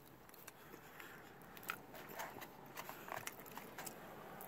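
Close-up mouth sounds of a person chewing a forkful of chili cheese fries: quiet, irregular clicks and smacks that grow more frequent after about a second and a half.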